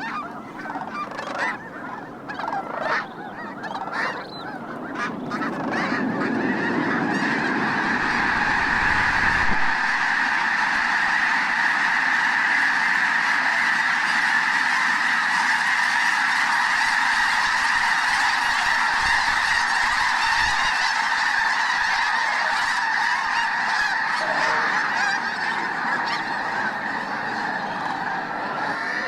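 A huge flock of snow geese honking. Separate calls at first build within a few seconds into a dense, continuous din of thousands of overlapping calls that holds steady.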